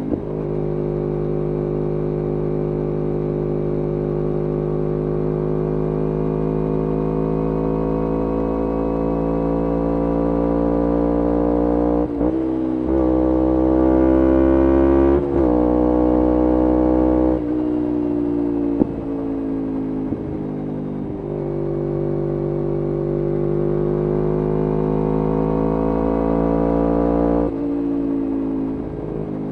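A 2011 Kawasaki Ninja 250R SE's parallel-twin engine running through a full Graves racing exhaust while riding. The engine note climbs as it accelerates and drops at gear changes about twelve, fifteen and twenty-seven seconds in. It falls away for a few seconds in the middle as the throttle is eased off, then climbs again.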